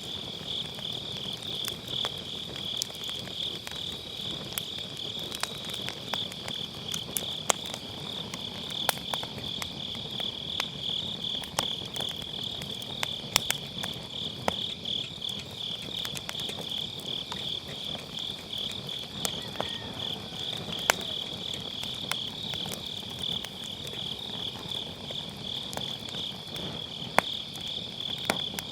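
Crickets chirping in a steady, fast-pulsing trill, over a wood fire crackling with scattered sharp pops, a few of them louder.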